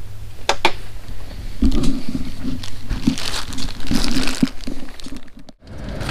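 Handling noise from goods being moved and rearranged on shelves: crinkling and rustling with irregular knocks, and two sharp clicks about half a second in. The sound breaks off briefly near the end.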